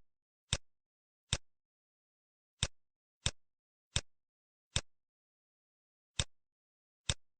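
Computer mouse button clicks, single and sharp at irregular intervals, about eight of them, with dead silence between.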